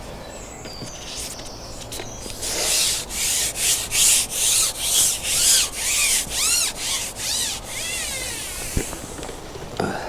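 Rhythmic rubbing or scraping, about a dozen strokes at roughly two a second, each with a faint squeak; it stops abruptly near the end.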